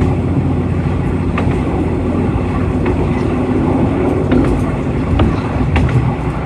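Noto Railway diesel railcar running along the line: a steady low engine drone, with now and then a sharp click of wheels over the rail joints.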